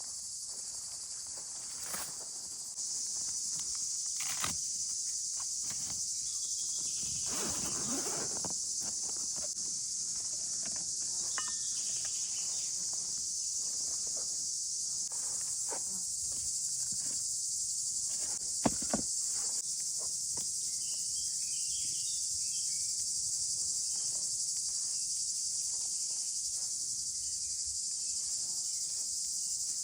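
A steady, dense, high-pitched chorus of insects runs throughout. Scattered light knocks and a brief rustle of camp handling sound over it, and two sharp clicks close together about two-thirds of the way through are the loudest sounds.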